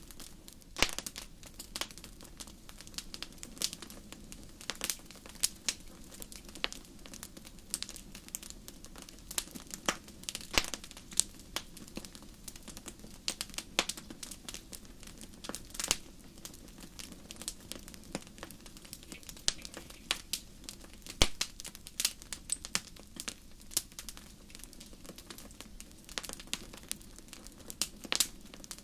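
Wood fire in a fireplace crackling, with irregular sharp pops over a low, steady hiss of the flames.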